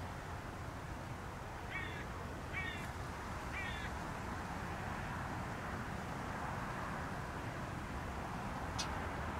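A bird gives three short, harsh caws about a second apart, over a steady low background rumble; a brief sharp tick follows near the end.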